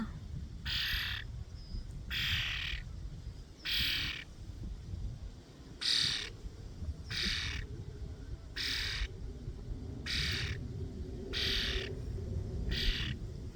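A bird perched close by gives a series of short calls, nine in a row, about one every second and a half.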